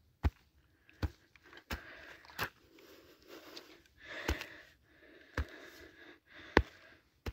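Hand hoe chopping into damp field soil between lettuce plants: about seven sharp strikes, roughly one a second and unevenly spaced, with soft scraping of earth between them.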